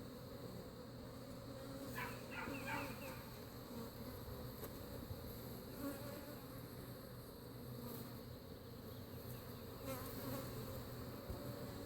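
Honeybees buzzing in a steady, low hum around an open topbar hive during an inspection.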